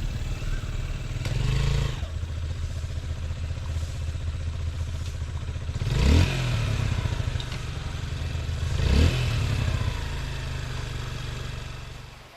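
Motorcycle engine running at low revs, with the pitch sweeping up sharply twice as it is revved, about six and nine seconds in. The engine fades out near the end.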